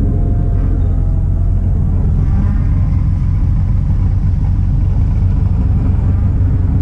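BMW E46 M3's inline-six engine idling, a low, steady sound with no change in revs.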